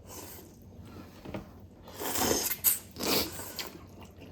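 Someone slurping noodle soup: two short slurps, about two and three seconds in, with a faint click between them.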